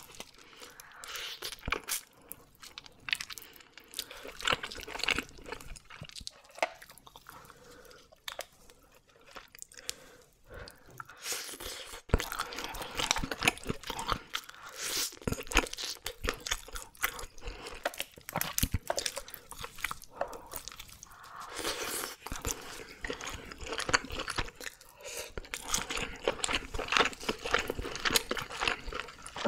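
Close-miked chewing and crunching of oven-grilled red sea bream, in runs of crisp crackles and clicks, thinning out for a few seconds in the middle before picking up again.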